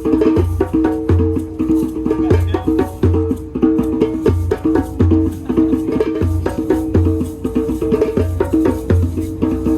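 Drum circle: many hand drums and percussion instruments playing together in a busy, steady rhythm, with deep bass beats roughly every half second over a clatter of wooden and shaker hits. A held pitched note sounds underneath throughout.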